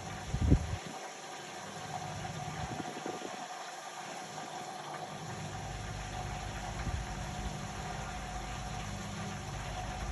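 Indesit Innex BWE 91496X washing machine running mid-cycle: a steady motor hum with water moving in the drum, and a thump about half a second in. The low rumble drops out twice in the first half and then comes back steady.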